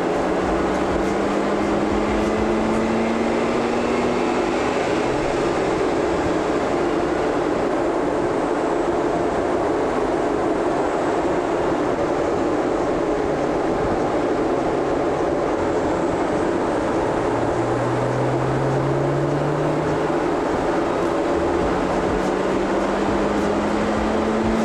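Mazda RX-8's rotary engine running under load on a chassis dyno, the driven wheels turning the rollers, in a steady drone whose pitch climbs slowly as road speed rises. The engine is one the dyno operator suspects is badly lacking in compression.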